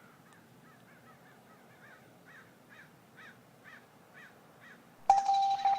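A bird calling over and over in a run of short, faint notes, about two a second, growing a little louder. About five seconds in, loud keyboard music with held tones cuts in over it.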